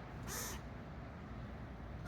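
A bird giving one short call about half a second in, part of a series repeating every second and a half or so, over a steady low rumble.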